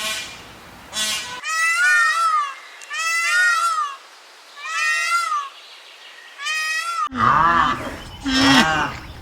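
Bleating: a run of high, wavering calls, about five in a row. About seven seconds in, an abrupt cut brings in deeper calls.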